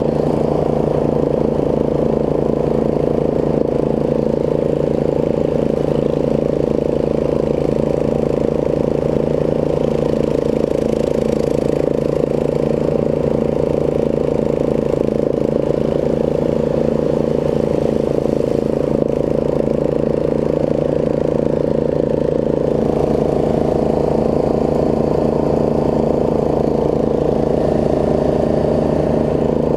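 Snapper rear-engine riding mower's engine running steadily at a constant speed. A higher tone joins the sound about 23 seconds in.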